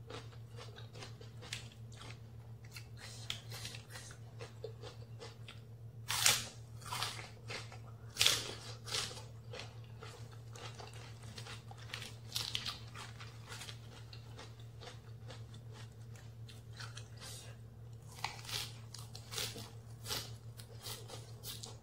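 Close-miked crunching and chewing of raw leafy vegetables, crisp bok choy stalks and leaves, bitten off and chewed in irregular crisp crunches. The loudest crunches come about six and eight seconds in.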